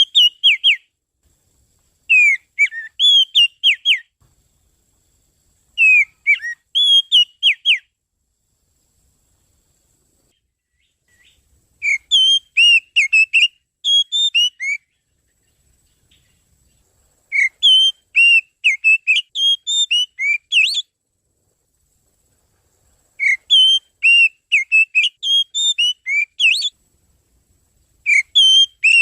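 Oriental magpie-robin song used as a trapping lure call: phrases of quick, varied whistled notes, each one to three seconds long, repeated every few seconds with silent gaps between them.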